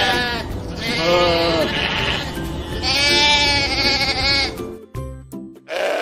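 Sheep bleating: three long, wavering bleats in a row, then a fourth starting near the end, over background music.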